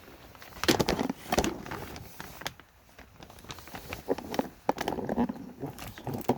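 Irregular knocks and rustling from handling, several sharp taps spread through the few seconds.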